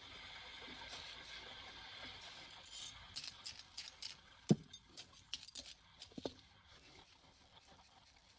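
Small hard objects clinking and knocking together, a quick run of clicks about three seconds in, with the loudest knock near the middle, after a faint steady hiss.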